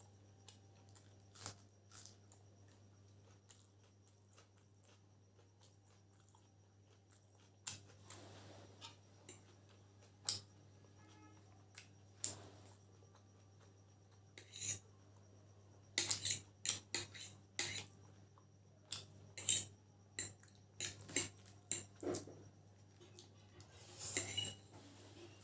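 Clinks and scrapes of cutlery against a plate while eating chicken chowmein, a few at first and coming much more often in the second half, over a steady low hum.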